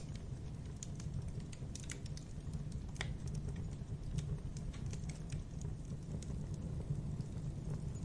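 Wood logs burning in a fireplace, crackling with irregular small pops over a steady low rumble, with one louder pop about three seconds in.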